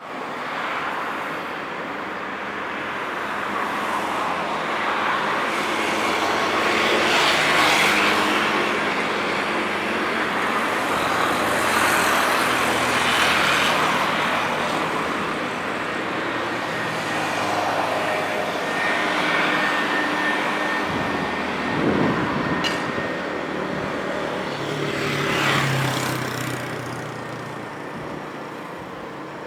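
Taiwan Railways EMU800 electric multiple unit running into a station on the rails, with a steady noise that swells and fades. A thin steady high tone joins in about two-thirds of the way through.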